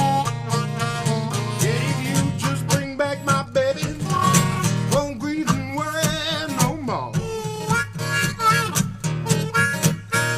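Acoustic blues instrumental break: a harmonica plays a solo with bending, wavering notes over a steadily picked acoustic guitar.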